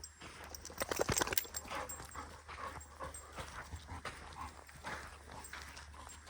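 A dog, an American Bully XL, panting and moving about, with a quick cluster of sharp clicks about a second in that is the loudest part.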